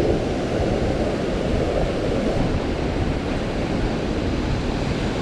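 Rough, storm-driven ocean surf rushing steadily onto the beach, with wind buffeting the microphone.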